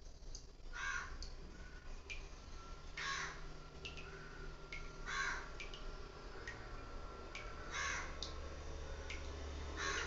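Birds calling: a harsh call repeated five times, about two seconds apart, with short high chirps from smaller birds between them.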